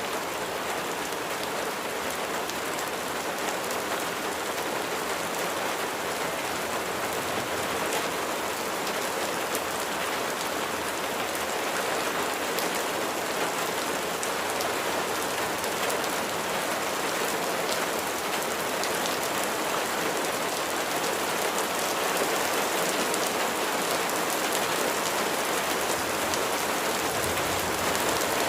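Steady rain falling, with individual raindrops ticking among the even hiss of the downpour.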